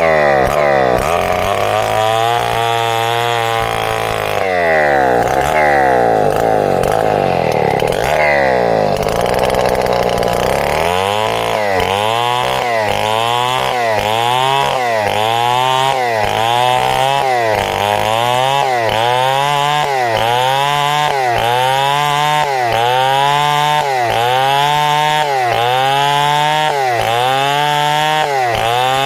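Two-stroke chainsaw cutting timber lengthwise into planks. For the first ten seconds or so its engine pitch swings up and down unevenly. After that it settles into an even rhythm, the engine dipping under load and recovering about once a second as the saw works through the cut.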